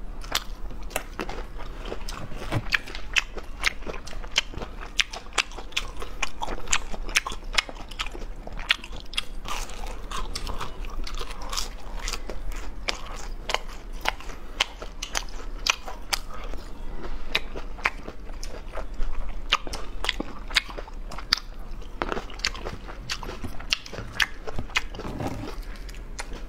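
Close-miked biting and chewing of crispy fried food, a dense run of sharp crunches.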